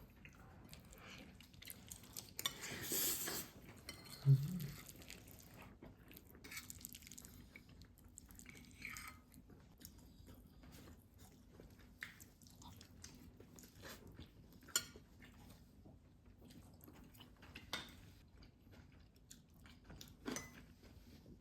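Quiet mealtime sounds: cutlery and dishes clinking now and then, and chewing. A short low sound about four seconds in is the loudest moment.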